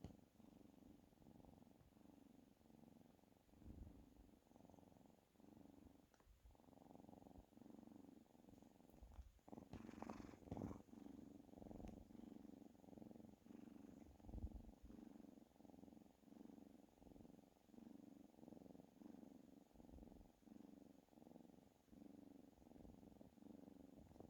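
Domestic cat purring softly in a steady, evenly pulsing rhythm, with a brief louder noise about ten seconds in.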